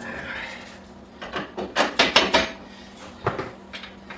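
Rubber mallet tapping the rear axle through the motorcycle's wheel hub and swingarm: a quick run of about seven knocks, then one more a second later.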